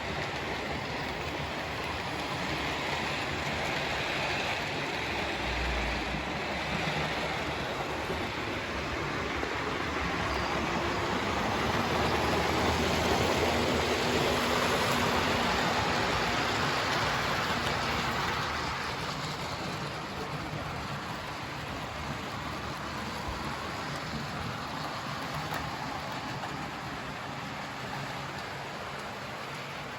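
Hornby 00 gauge model train running around the layout: a steady rumble of wheels on the rails with a faint motor hum, getting louder as it comes nearest around the middle and fading as it moves away.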